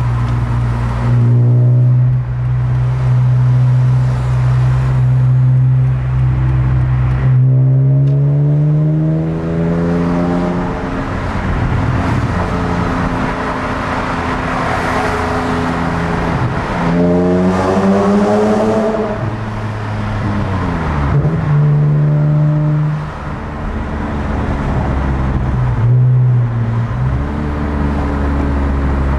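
BMW E46 M3's 3.2-litre straight-six with SMG II gearbox heard from inside the cabin: steady engine drone at a cruise, then two pulls where the engine note climbs in pitch, with drops in pitch between as it shifts or eases off.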